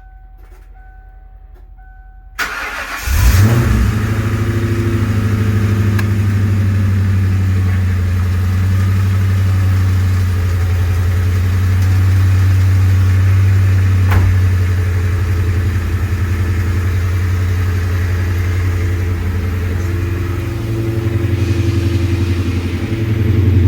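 1997 Ford Mustang GT's 4.6-litre V8 through a full exhaust, cranking briefly and catching about three seconds in with a loud flare. It then settles into a steady idle, rising a little near the end.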